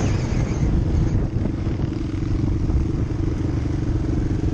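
Dirt bike engine running steadily under way, with a dense low rumble.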